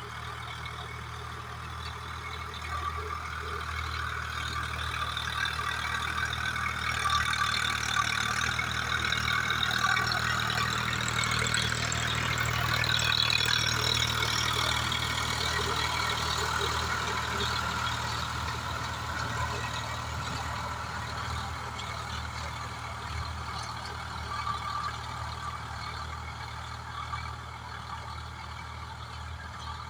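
Swaraj 744FE tractor's three-cylinder diesel engine running steadily under load while it drives a rotavator through soil. The sound grows louder toward the middle and then fades again, as the tractor passes closer and moves off.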